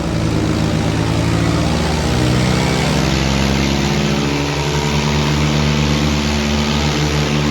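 Eicher 557 tractor diesel engines running hard under load in a pulling contest, a loud steady drone that shifts slightly in pitch about halfway through.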